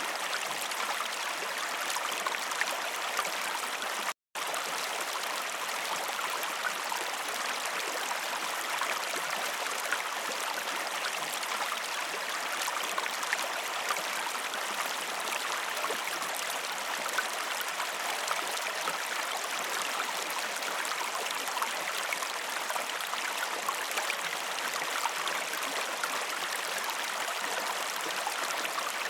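Waterfall: water falling and splashing in a steady, even rush. The sound cuts out completely for a split second about four seconds in, then carries on unchanged.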